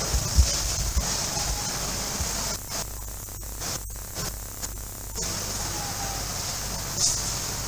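Steady hiss with a few low thumps in the first second; the hiss drops away for a couple of seconds in the middle, then returns.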